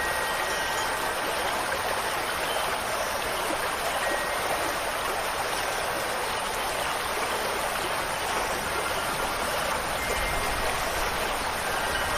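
Steady rushing of water, even and unbroken. A few faint wind chime tones ring near the end.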